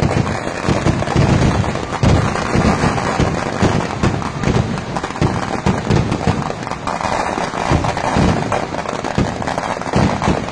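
Kerala vedikkettu fireworks going off in a dense, unbroken barrage of bangs and crackling as shells launch from the ground and burst overhead.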